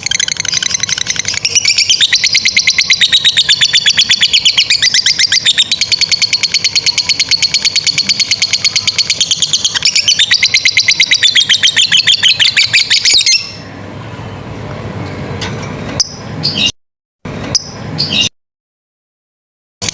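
Lovebird ngekek: a long, very fast run of high-pitched chattering notes that carries on for about 13 seconds and then breaks off suddenly. After it come quieter low noise, a few short calls and two abrupt dead silences.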